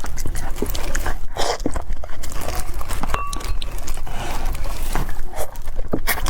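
Close-miked eating sounds: chewing with many small wet clicks and mouth smacks.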